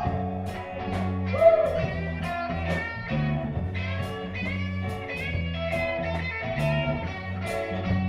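Live band playing a reggae-flavoured song with no singing: a guitar plays a melodic lead with bent notes over a bass line and a steady beat of about two strokes a second.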